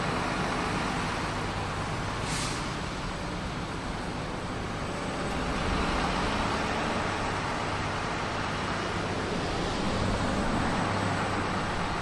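Steady vehicle engine and road-traffic noise, with a brief hiss about two seconds in.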